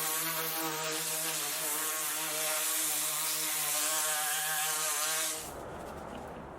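Pressure washer running, its motor-driven pump humming with a slightly wavering pitch under the hiss of the water spray, then stopping abruptly about five seconds in. Afterwards a quieter hiss with a few light ticks remains.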